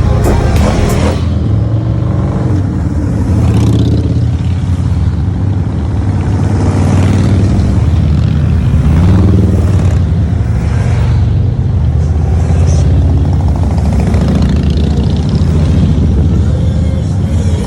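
Motorcycle engine running steadily under way, with wind and road noise; the engine note shifts up and down a few times.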